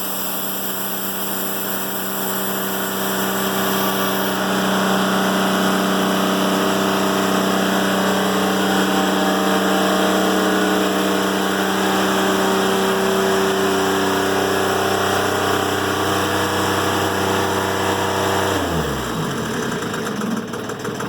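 Timberking 1400 band sawmill running steadily under power. Near the end its engine is shut off, and the pitch slides down as it winds to a stop.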